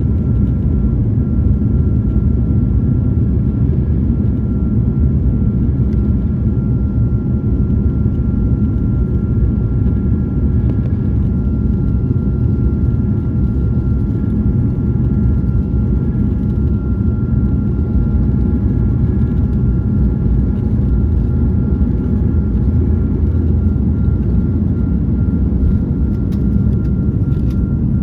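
Steady cabin noise inside an Airbus A220-300 in flight: a deep, even rumble of its Pratt & Whitney geared turbofan engines and the airflow, with a faint steady whine over it.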